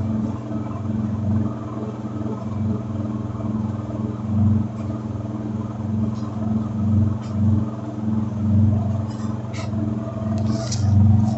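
Electrolux LT10B washing machine running with a steady low hum that swells and fades every second or two, with a few light clicks near the end.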